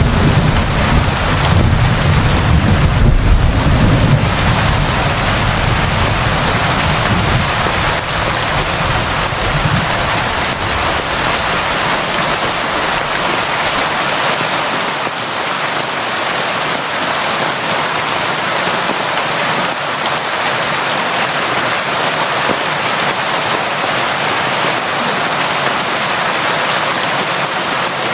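Steady, constant rain falling. A low rumble of thunder sounds for the first ten seconds or so and then fades away.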